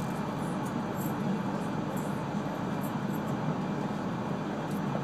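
Steady running noise heard inside the cabin of an E3 series Shinkansen train travelling at speed: an even, low rumble of the train on the rails.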